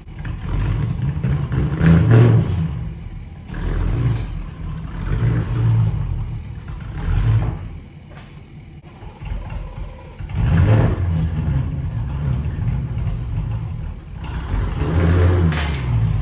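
Car engine revving in repeated surges, rising and falling several times.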